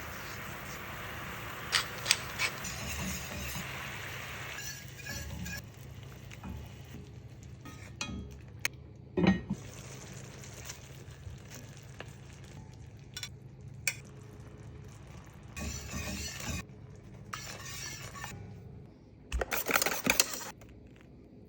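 Kitchen utensils and cookware clinking and knocking, metal against a pan and dishes, in scattered single strikes, with a louder cluster of knocks near the end.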